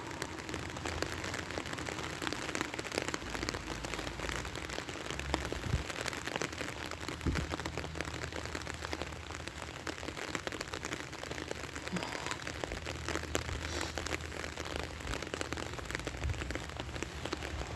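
Steady rain falling, a dense patter of many small drops hitting surfaces.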